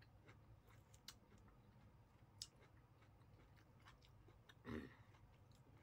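A person chewing a mouthful of rice, egg and vegetables, soft and close, with a few light mouth clicks and a short louder mouth sound near the end.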